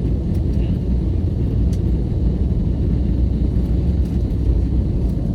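Steady low rumble inside the cabin of an Airbus A321neo, from its engines and airframe.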